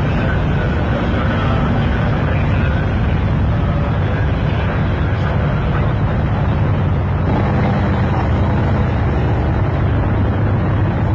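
Steady, loud engine rumble with a constant low hum.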